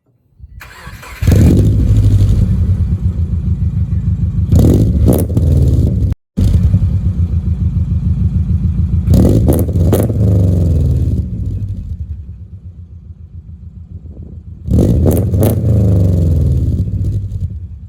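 2004 Subaru Forester 2.5X flat-four engine running through new unequal-length headers, track pipe and exhaust: it comes up about a second in, runs with a pulsing beat, and is revved in quick blips three times.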